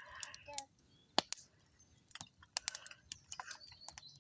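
Campfire being lit: scattered sharp clicks and snaps at irregular intervals, most of them in the second half.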